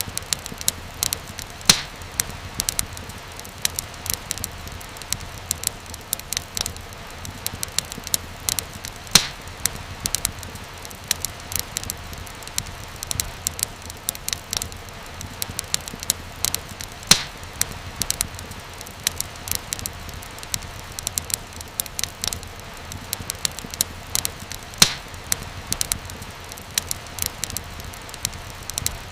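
Fireplace fire crackling: a steady hiss dotted with many small pops, and a louder snap about every eight seconds.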